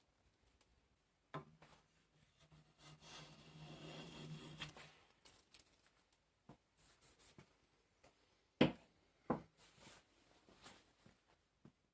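Handling sounds at a workbench: a short stretch of rubbing with a faint low hum, a sharp click about halfway through, then two knocks a little later.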